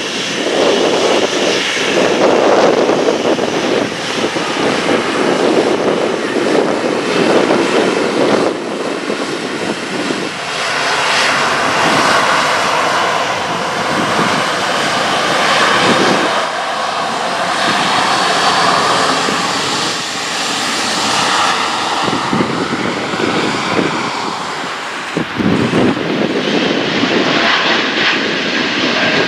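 Jet engines of a Boeing 737-800 airliner, its CFM56 turbofans, running loud and steady close by as a dense rush with a faint whine above it. About 24 seconds in there is a short break, and the engines of a second airliner, a Boeing 787-9, take over.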